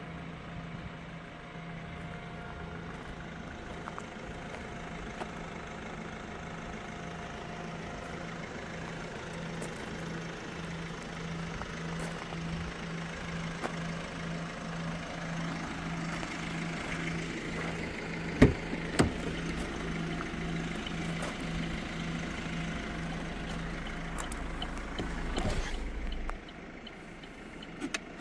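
Vauxhall Insignia's 1.6 CDTi four-cylinder turbodiesel idling steadily. A couple of sharp knocks come a little past halfway, and the low rumble drops off near the end.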